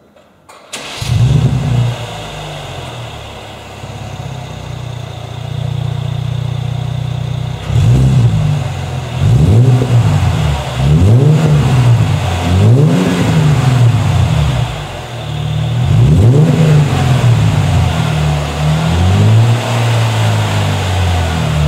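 Mercedes C350 W204 V6 engine through a Piecha Design quad exhaust: it starts with a quick flare, settles to idle, then is revved in a series of about six short blips.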